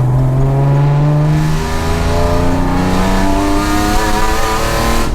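BMW M50B25 straight-six breathing through stainless headers and a 3-inch stainless exhaust with small silencers, accelerating: a deep, steady note for about a second and a half, then climbing steadily in pitch as the revs rise, cutting off suddenly near the end.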